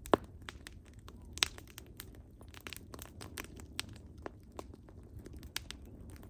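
Burning firewood crackling: irregular sharp pops and snaps over a low steady rumble of the flames, with a louder pop right at the start and another about a second and a half in.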